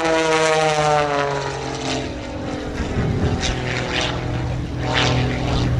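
Extra 300S aerobatic plane's propeller and six-cylinder Lycoming engine heard in flight. The note falls in pitch over the first two seconds, then holds steady at a lower pitch.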